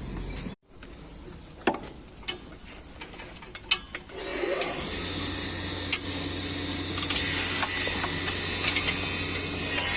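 Ratchet spanner clicking as exhaust bolts are undone: a few scattered knocks at first, then from about four seconds in a continuous rapid ratcheting that gets louder around seven seconds.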